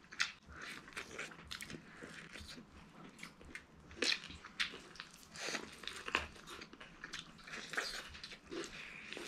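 People biting and chewing sweet corn on the cob: irregular small crunches and mouth clicks, with a few louder bites about four and six seconds in.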